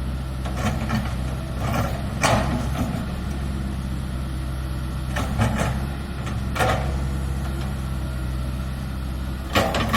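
Komatsu PC160LC-8 excavator's diesel engine running steadily. About six brief, sharp clanking noises are scattered over it.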